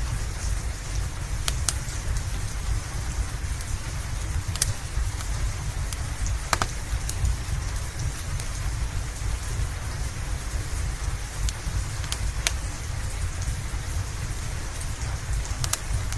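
Steady rain with a deep low rumble underneath, and a wood fire's sharp crackles popping every few seconds.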